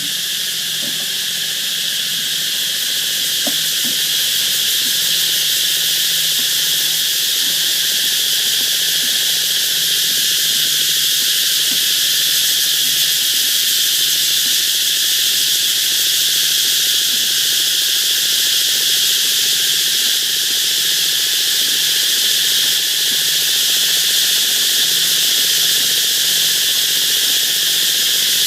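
Cicadas calling in chorus: a loud, steady, high buzz that grows a little louder over the first few seconds and then holds without a break.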